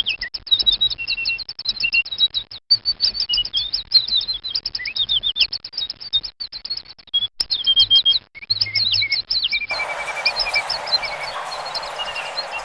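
Small birds chirping in a rapid, busy stream of short high chirps and quick pitch glides. About ten seconds in, a steady hiss comes in underneath while the chirping continues.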